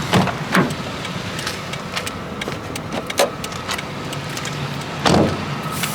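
Steady low hum of a motor vehicle, broken several times by short sharp clicks or knocks.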